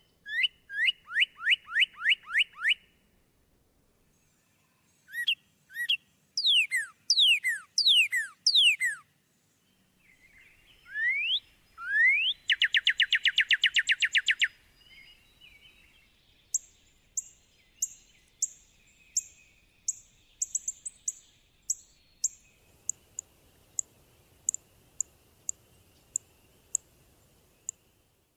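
Northern cardinal singing: a series of repeated, clear, downslurred whistles, with the phrase type changing twice, then a fast trill of rising notes near the middle. This is followed by a long run of short, sharp, high chip notes, about two a second.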